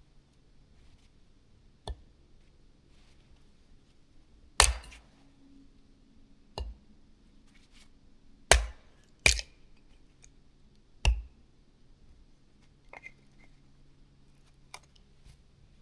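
Sharp cracks of wood, about six of them at uneven gaps of one to two seconds. Three of the later ones are the loudest: two close together just past halfway, and one more shortly after.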